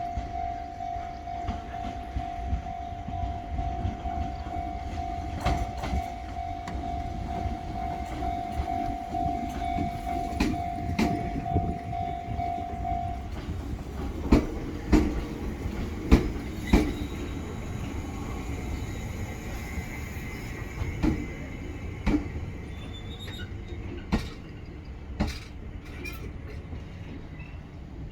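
Fujikyu 6000 series electric train pulling into a station: a low running rumble with wheels clacking over rail joints in pairs, the pairs coming further apart as it slows. A steady tone sounds through the first half and cuts off about halfway through.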